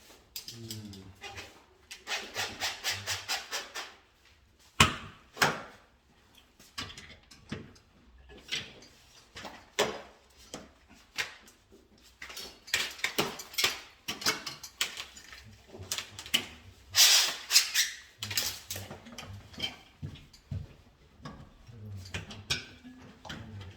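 Hand-tool work on an electrical wiring practice board: runs of quick rubbing or scraping strokes, scattered clicks, and one sharp knock about five seconds in.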